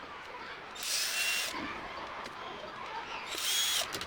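A small handheld power tool runs twice in short bursts of under a second. Each burst is a high whine over a hiss that rises as the motor spins up and drops as it stops.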